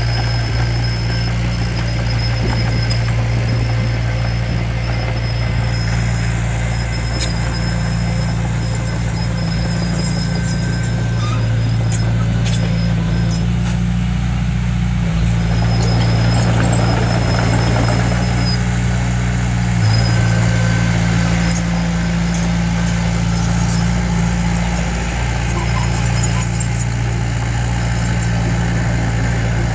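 Heavy-equipment diesel engine running steadily under light working load, swelling a little around the middle. A thin high whine sounds over it through much of the first half.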